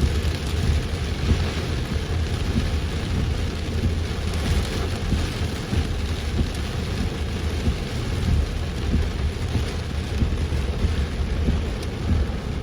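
Heavy rain falling hard and steadily, with a constant low rumble underneath.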